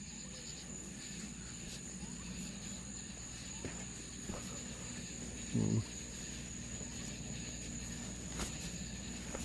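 Steady high-pitched trilling of an evening insect chorus, crickets. A little past halfway a brief low vocal sound cuts in once.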